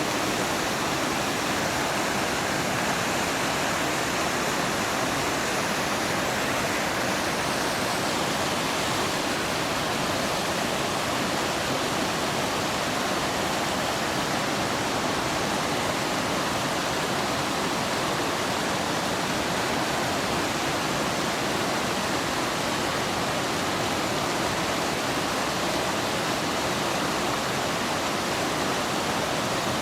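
Steady, unbroken rush of fast-flowing water, as from a mountain stream or waterfall.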